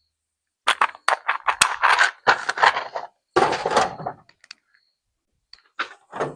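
Hand tools and small parts clattering and scraping as they are handled on a workbench: a busy run of clicks and knocks for about three seconds, then a shorter clatter near the end.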